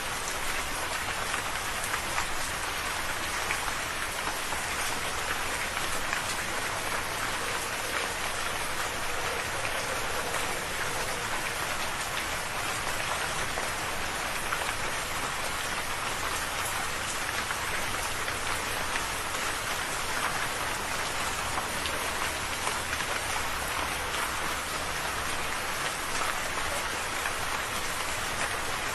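Steady rain falling, a dense even patter of drops that keeps a constant level with no swells or pauses.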